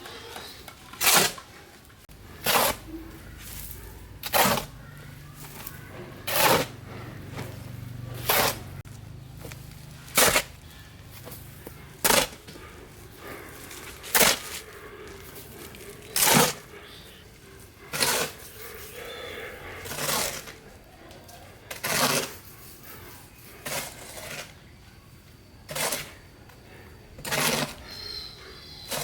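A hand tool striking in a steady rhythm: sharp knocks, one about every two seconds.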